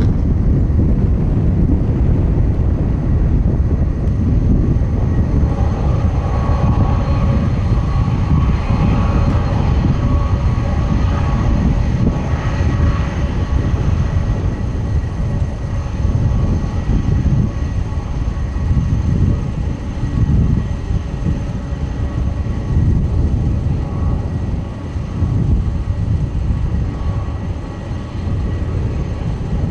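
Boeing 747-400 freighter's jet engines running loud: a deep, continuous rumble with a steady whine over it, the whine strongest about a third of the way in.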